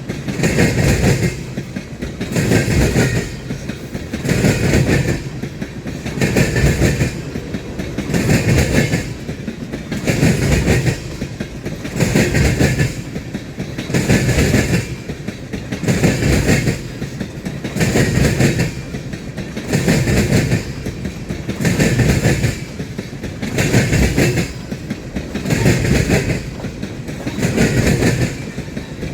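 Freight train cars rolling past, their wheels clattering in a steady rhythm that repeats about every two seconds as car after car goes by.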